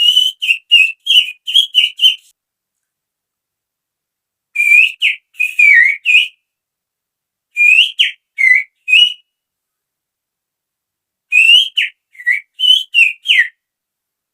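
A person whistling through the fingers to imitate a female oriental magpie-robin's call. There are four bursts of short notes that rise and drop, with pauses of about two seconds between them.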